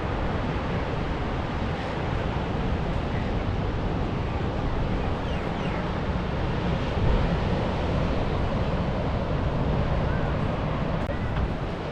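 Steady ocean surf washing in, with wind buffeting the microphone.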